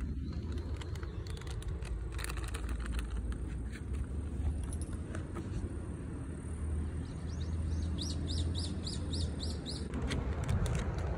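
A bird calling a quick run of short, repeated falling notes, about four a second, over a steady low rumble with a few soft clicks.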